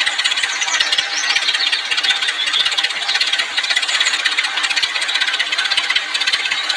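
Small hobby DC motor of a homemade mini water pump running steadily with a dense buzzing rattle.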